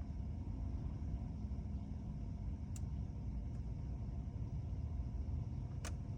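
Steady low rumble with a faint hum inside a car with the ignition on but the engine off, broken by two sharp clicks, a faint one about three seconds in and a stronger one near the end.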